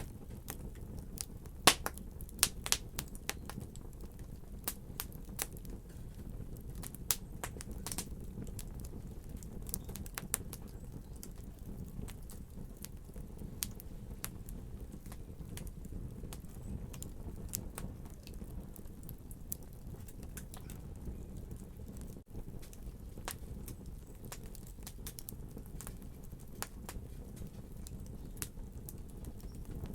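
Wood fire crackling in a fireplace: irregular sharp pops and snaps over a steady low rumble of the burning fire, with a louder pop about two seconds in.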